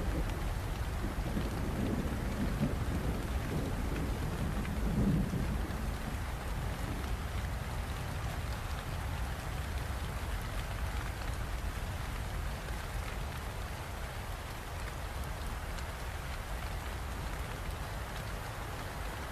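Steady rain falling, with a low rumble of thunder over the first several seconds, strongest about five seconds in.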